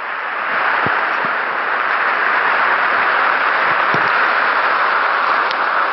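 Loud, steady rushing noise with a few faint low knocks.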